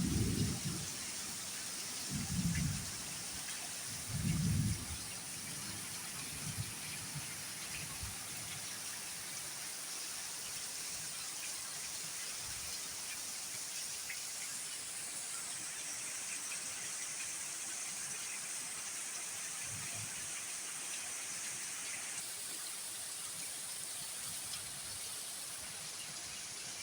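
Steady rain hissing in a windy storm, with a few short low rumbles in the first five seconds and a fainter one about three-quarters of the way through.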